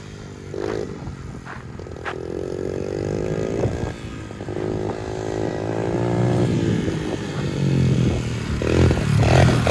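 Pit bike engine revving hard during a run, its pitch climbing and dropping repeatedly as the throttle and gears change. It grows louder as the bike draws near, and is loudest in the last second.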